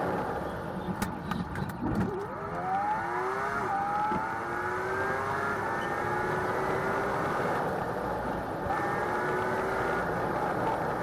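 Car engine accelerating hard over road noise, its pitch climbing for a couple of seconds and then holding high, with a few sharp clicks just before it.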